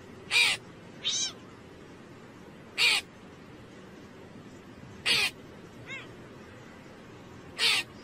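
Hooded crow cawing: about four harsh caws a couple of seconds apart, with a couple of softer, shorter calls between them, over a steady low hiss.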